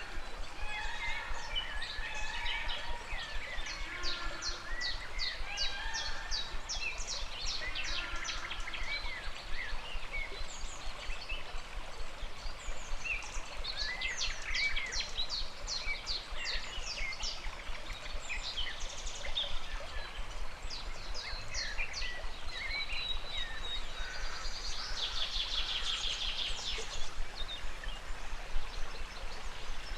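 A river flowing steadily with many birds chirping and calling over it, including rapid trills in bursts and a dense trill near the end.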